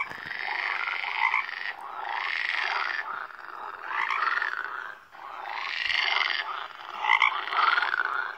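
Frog croaking sound effect: a run of repeated croaking calls, each about a second or more long, one after another with short gaps.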